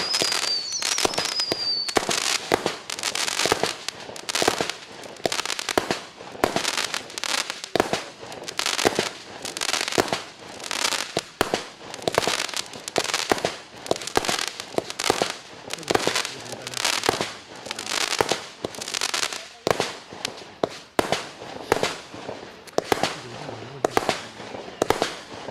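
Compact multi-shot fireworks cake (20 mm tubes) firing a rapid string of sharp reports, about two or three a second, with falling whistles in the first couple of seconds.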